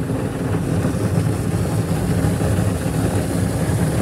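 Automatic car wash machinery running, heard from inside the car as a steady low rumble with a hiss over it.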